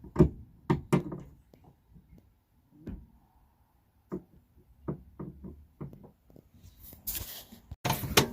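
Scattered knocks and clunks from a replacement rear shock absorber and its mounting hardware being handled and fitted into place, loudest in the first second, with a burst of scraping near the end.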